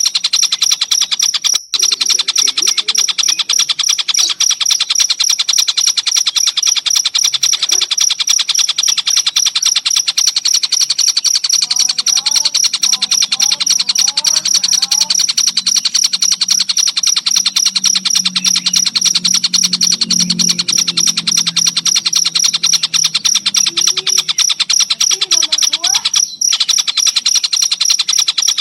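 Cricket chirping in a loud, fast, evenly pulsing trill that runs on without a break except for two brief dropouts, one about two seconds in and one near the end. Faint, short gliding bird calls sit behind it, and a low hum rises in the middle.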